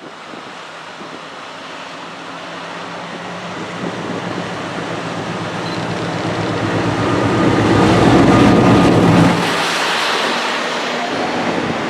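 Diesel train approaching and passing close by. Its engine hum grows steadily louder to a peak about eight to nine seconds in, where the low engine note cuts off suddenly, leaving an even rushing rumble of wheels on rail.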